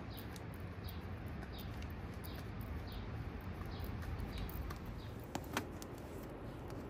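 A bird chirping, short high calls repeated about twice a second, over a steady outdoor hiss. Two sharp clicks about five and a half seconds in.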